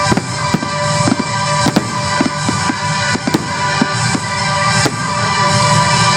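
Fireworks going off in a string of about a dozen sharp bangs at uneven intervals, over loud show music with a steady low backing.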